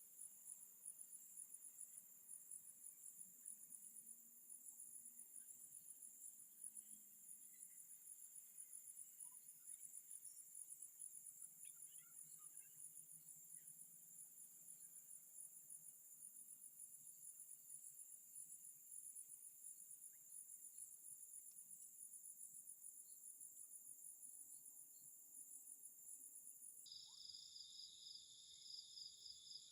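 Faint chorus of crickets trilling steadily in a high, finely pulsing tone; near the end it changes abruptly to a lower-pitched trill.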